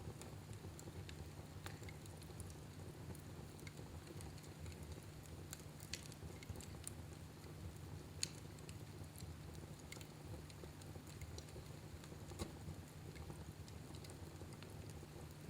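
Fire burning in a fireplace, crackling with scattered sharp pops, the loudest about 8 seconds in, over a steady low rumble.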